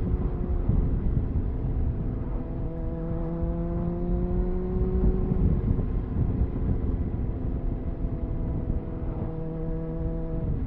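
Triumph Speed Four's 600cc inline-four on its stock exhaust, riding along under light load. The engine note climbs slowly for a few seconds, then drops back about halfway through and runs fairly steady, with a sudden change in pitch near the end. Heavy wind rush on the microphone runs underneath.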